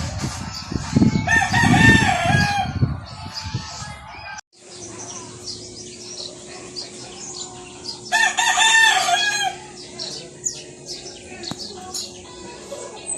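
A rooster crowing twice, once about a second in and again about eight seconds in, over repeated short high chirps of small birds.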